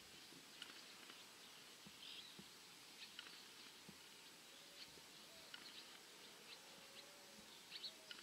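Near silence outdoors with faint, scattered bird chirps, short and high, coming every second or so.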